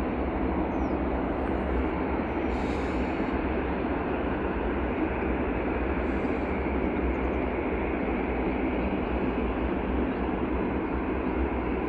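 Jet airliner noise from an Airbus A350-900: a steady, even roar over a low rumble that neither rises nor falls.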